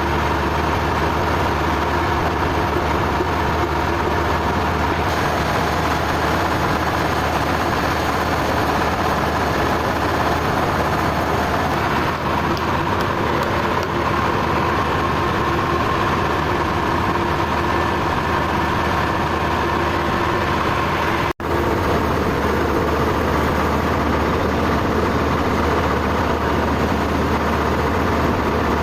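Sawmill machinery running steadily: a constant engine-like drone with a steady whine. About 21 seconds in, the sound drops out for an instant and then resumes.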